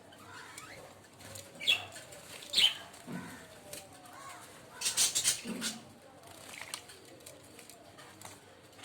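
Caged finches giving a few short, high chirps, with a brief burst of wing fluttering about five seconds in.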